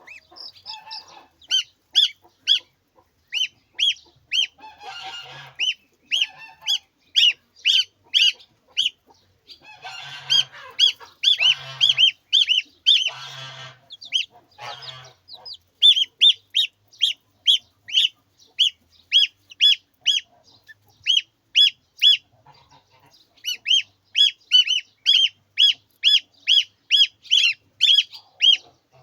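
Poultry calling: a long run of short, high-pitched peeps, about two to three a second, with harsher, noisier calls mixed in from about a fifth to halfway through.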